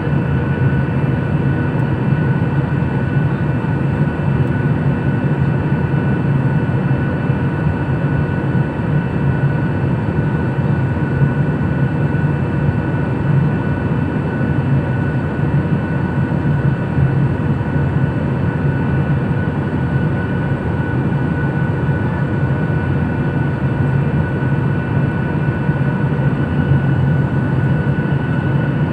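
Steady cabin noise of an airliner in flight, heard from inside the passenger cabin: a constant low engine drone with a few steady whining tones over it.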